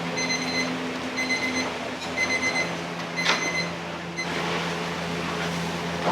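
An electronic beeper sounds in repeated short bursts over a steady low kitchen hum, with a sharp metallic knock about three seconds in. The beeping stops about four seconds in, leaving the hum and a noisy rush.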